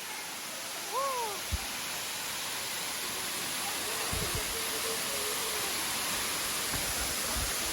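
Steady rushing hiss of a waterfall, growing slightly louder. A short call glides up and then down about a second in, and faint voices and a few low thumps come through the roar.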